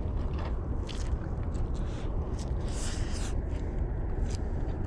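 Biting and chewing a batter-fried smallmouth bass taco: a handful of short, crisp crunches spread over a few seconds, over a steady low rumble.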